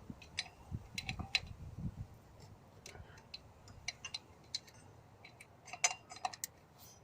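Scattered light metallic clicks and taps of hand tools and parts handled on an engine during belt work, irregularly spaced, with a small cluster near the end.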